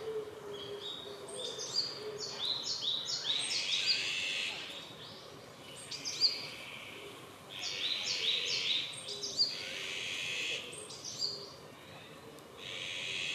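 Woodland birds chirping and singing in quick bursts of high notes, with short lulls between the bursts. A faint low hooting sounds underneath, mainly near the start.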